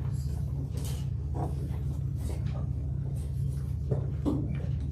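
A steady low hum, with soft rustles and a few light knocks scattered over it.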